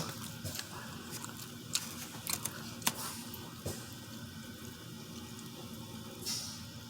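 Wet, squishy eating sounds of a butter-sauced seafood boil being handled and chewed, with a few short sharp clicks scattered through.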